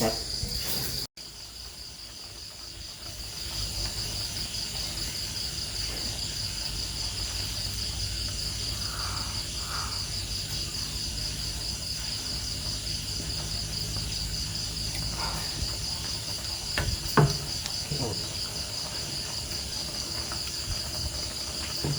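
Steady chorus of insects trilling in a high, fast-pulsing band over a low background hum, with a couple of short knocks around 17 seconds in.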